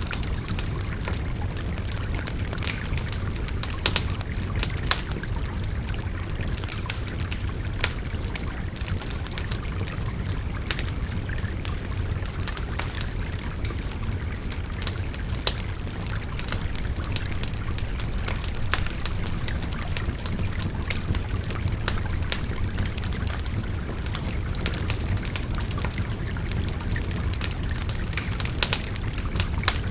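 Wood fire crackling, with frequent sharp, irregular pops, over the steady low rush and trickle of a babbling stream.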